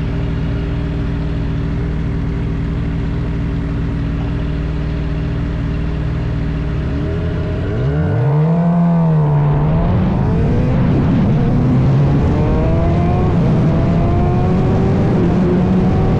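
Suzuki GSX-R750's inline-four engine running at a steady pitch, then, about halfway through, getting louder and revving up as the bike accelerates hard. The pitch climbs and drops back several times as it shifts up through the gears.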